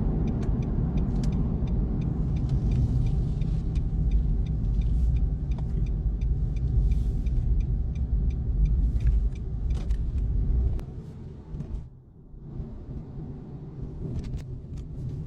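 Car driving, a low road and engine rumble heard from inside the cabin, with scattered small clicks; the rumble drops off sharply about eleven seconds in, leaving a quieter low hum.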